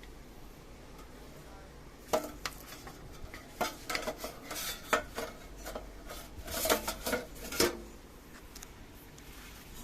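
Hard objects being handled: a string of clinks and clatters starting about two seconds in, with several louder knocks, then dying away near the end.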